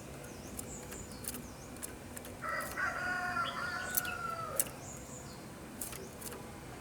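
A rooster crows once, a drawn-out call of about two seconds that slowly falls in pitch, with short, sharp, high-pitched chips from small birds scattered around it.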